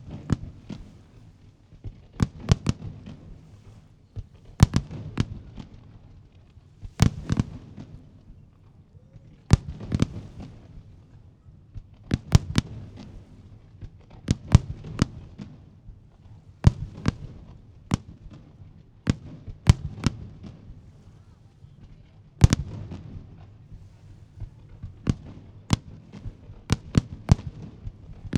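Aerial firework shells bursting over the sea in a professional display by Jinli Fireworks: a sharp bang every second or two, each trailed by a low rumbling echo, with quicker runs of bangs near the end.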